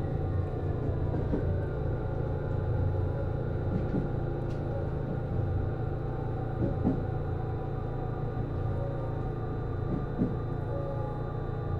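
JR East HB-E210 series hybrid train running, heard from inside the car: a steady low drone of its Komatsu DMF15HZB-G diesel generator set with Hitachi IGBT-VVVF traction motor and inverter tones, some sliding slowly down. A few faint knocks from the wheels on the track.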